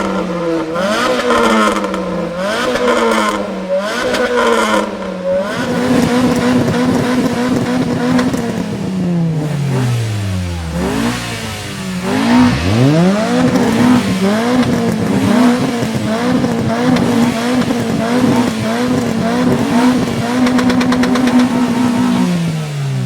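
A car engine revved hard while standing: quick blips up and down about once a second, then held at high revs for a few seconds and let fall. It is then revved up again and held flat-out with a slight regular stutter for about nine seconds, as when it bounces on the rev limiter, before dropping back near the end.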